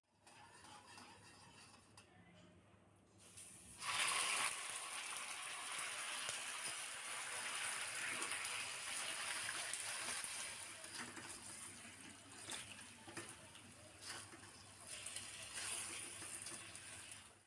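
Water running from a tap into a sink. It begins as a steady rush about four seconds in and dips briefly near the end.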